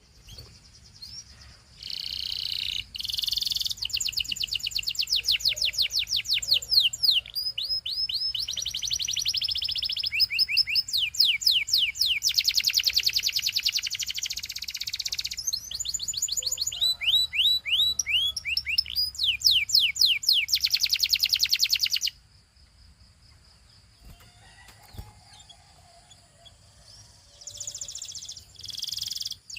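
Domestic canary singing a long song of rapid repeated trills, quick downward-sweeping notes and buzzy rolls. It stops abruptly about two-thirds of the way in and starts again near the end.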